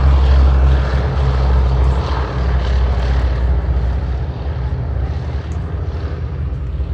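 Boeing B-17 Flying Fortress's four radial piston engines and propellers running in a steady drone that gradually fades.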